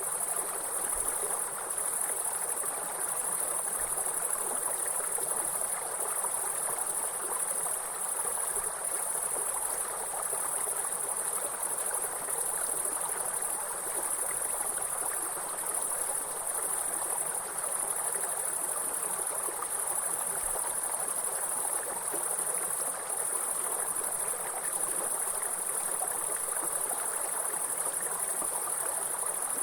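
A continuous high, steady insect trill, which the uploader calls grasshoppers, over the even rush of a flowing water stream.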